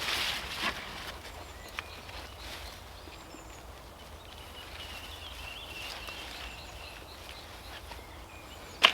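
Outdoor garden sound with a bird giving a thin, high, steady call for a couple of seconds in the middle. A rustling handling sound comes at the start and a sharp knock near the end, the loudest sound here.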